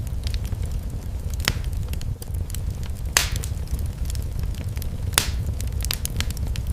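Fire in a fireplace crackling, with a steady low rumble under a scatter of small snaps and three louder pops.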